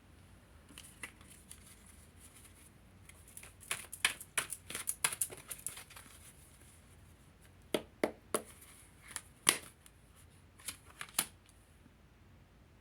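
Tarot cards being shuffled by hand: two bouts of quick crisp card snaps and flicks, the first about four seconds in, the second about eight seconds in.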